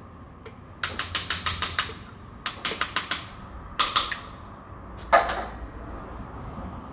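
Ratchet wrench clicking in quick runs of sharp clicks, about eight a second, then two single louder clicks, the last ringing briefly.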